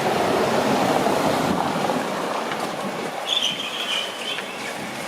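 Street traffic noise from a vehicle passing, loudest in the first couple of seconds and fading away, with a brief high squeal about three and a half seconds in.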